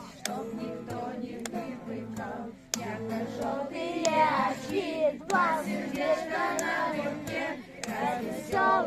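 A group of children singing together, with occasional sharp clicks over the voices.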